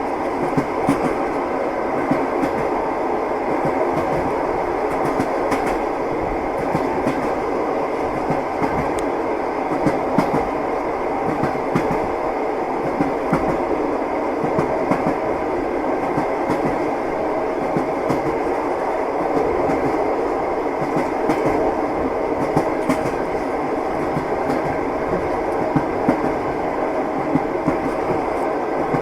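A train running steadily, its wheels clattering over rail joints in irregular knocks over a continuous rumble.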